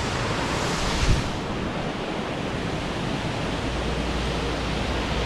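Waterfall: a steady rush of falling water, with a brief low thump about a second in.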